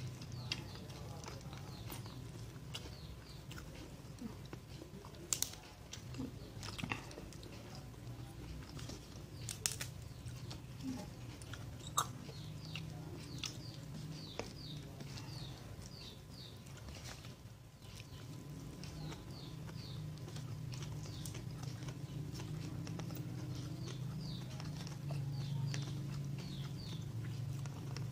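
Close chewing and eating sounds of a meal of fried fish and raw vegetables, with a few sharp clicks, over a low steady hum. Birds chirp in short repeated runs in the background.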